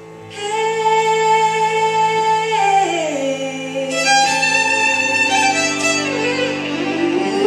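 Violin starts about a third of a second in, playing long held notes that slide down in pitch, over a low held drone of accompanying instruments.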